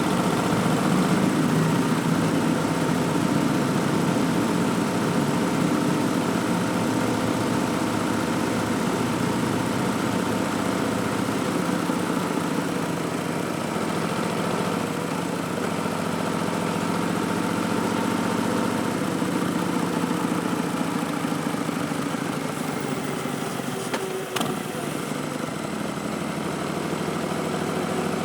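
2019 Harley-Davidson Street Bob's Milwaukee-Eight 107 V-twin running steadily at low revs through Vance & Hines Twin Slash slip-on mufflers, with an Arlen Ness Big Sucker intake. A single short click comes near the end.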